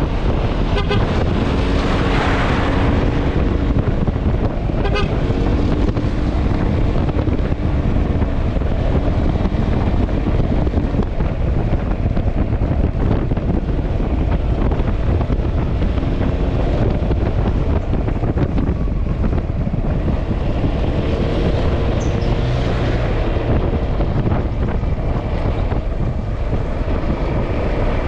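Wind rush on the microphone and road noise while riding a Yamaha XMAX scooter, with a steady hum that comes and goes several times. Twice the hiss swells and fades as another vehicle goes by.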